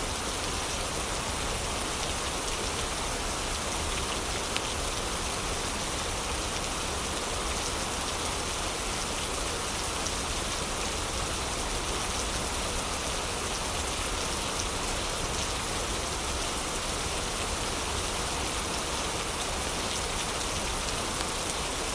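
Heavy rain falling steadily, with a few sharp crackles from a fireplace.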